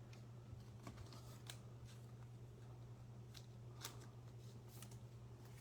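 Faint handling of trading cards: scattered light clicks and rustles over a steady low hum.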